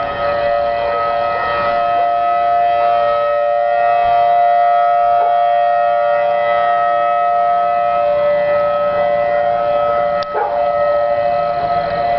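Outdoor tornado warning siren sounding a steady tone, a sign that a tornado warning is in effect. A brief click comes about ten seconds in.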